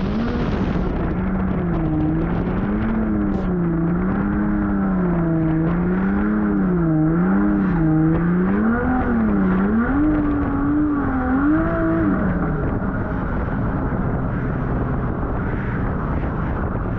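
Toyota Corolla KE70 wagon's 1.5JZ straight-six engine revving up and down again and again under throttle while drifting. About twelve seconds in the revs drop and it settles to a lower, steady running.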